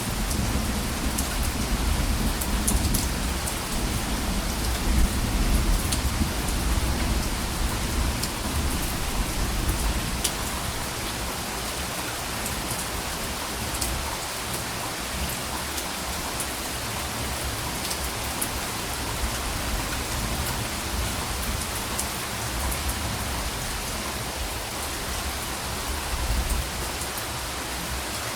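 Steady rain hissing, with fine drop ticks, over a low rumble of soft thunder that is strong for the first ten seconds or so and then dies away, swelling briefly again near the end.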